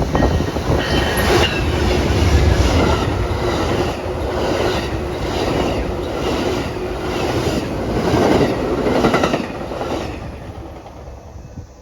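A passing train, its wheels clacking over rail joints in a steady repeating rhythm over a rumble. The clacking fades out near the end.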